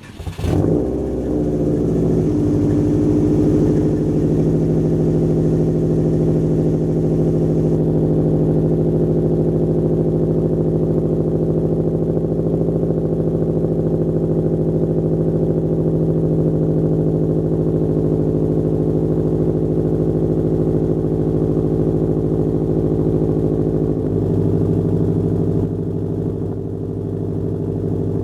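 Subaru Legacy GT spec.B's turbocharged 2.5-litre flat-four starting up through a Nameless catback exhaust with muffler delete, then idling steadily and loudly. About four seconds before the end the idle drops to a lower, deeper note.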